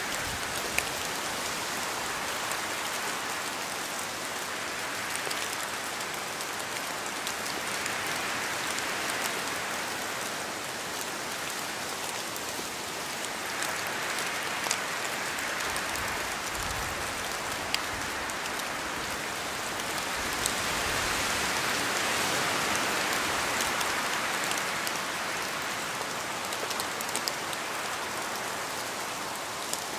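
Steady rain falling, with scattered sharp drop ticks, swelling slowly in intensity and a little heavier about two-thirds of the way through.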